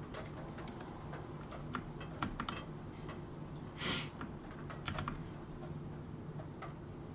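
Computer keyboard typing: irregular, uneven keystrokes clattering, with a short, louder rustling burst about four seconds in.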